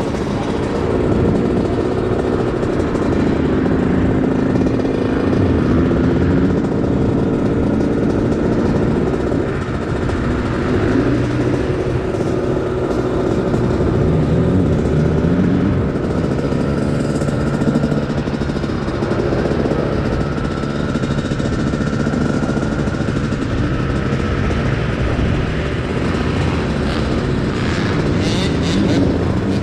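Yamaha YZ125's 125 cc single-cylinder two-stroke engine being ridden hard, its pitch climbing and dropping again and again as the throttle is opened and shut.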